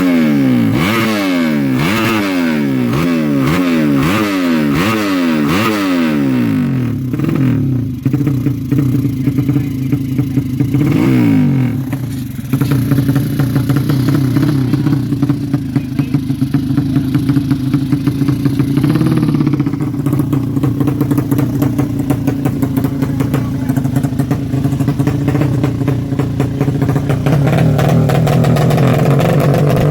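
Honda Karisma motorcycle's single-cylinder four-stroke engine being revved in quick blips, about one a second, then given two longer revs and left running at a steady speed with a rough rattle, as the engine is tuned.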